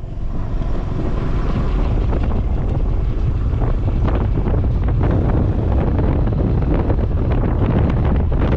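Wind buffeting the microphone on a moving motorcycle, with the motorcycle's engine and road noise under it.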